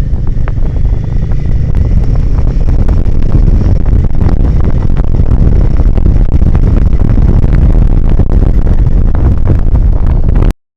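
Royal Enfield Himalayan 450 motorcycle being ridden, with heavy wind buffeting on the microphone over the engine and tyre noise, and scattered sharp clicks and knocks. The sound cuts off suddenly near the end.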